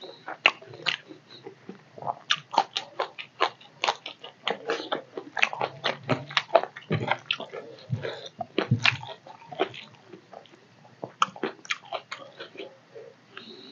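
Wet chewing and lip-smacking of a person eating rice and fish curry: a quick, irregular run of short, sharp mouth smacks.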